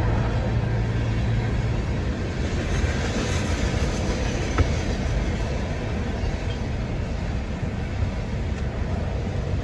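Freight train rolling past: a steady low rumble of cars on the rails, with one sharp click about halfway through.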